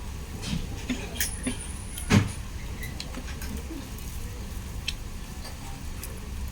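Scattered small clicks and mouth sounds of eating, with one sharp knock about two seconds in, over a steady low background hum.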